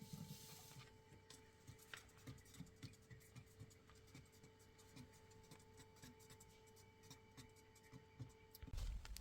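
Near silence: a faint steady hum with scattered light ticks and taps. A low rumbling noise comes in near the end.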